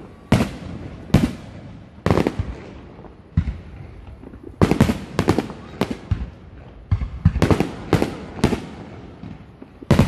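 Aerial fireworks shells bursting one after another: about fifteen sharp bangs, each trailing off in a rolling echo. They come in quick clusters of several bangs about halfway through and again near the end.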